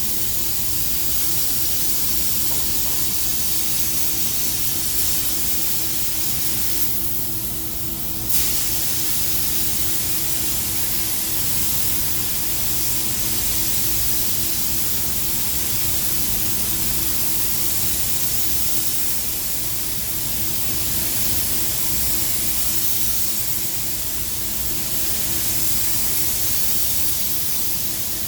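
Spray gun hissing steadily as it sprays silver-mirror coating, with a steady low hum beneath. The spray drops off briefly about seven seconds in and snaps back on about a second later.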